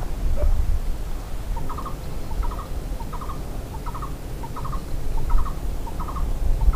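A bird calling in a steady series of short, quick double notes, about one every two-thirds of a second, starting about a second and a half in, over a low rumble.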